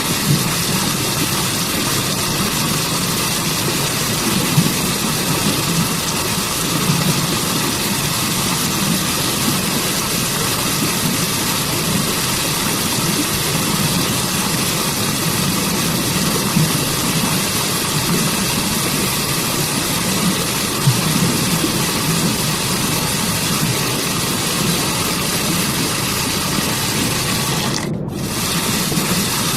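Waterfall and forest stream water rushing in a steady, full roar with a deep rumble underneath. The hiss dips for a moment near the end.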